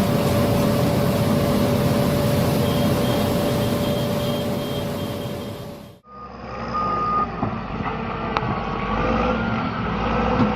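Heavy mining machinery's diesel engine running with a back-up alarm starting to beep about three times a second near the middle. After an abrupt cut about six seconds in, another heavy diesel machine runs.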